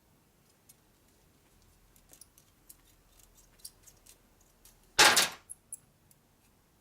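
Light clicks and taps of metal parts being handled, then a single loud, short metal clatter about five seconds in.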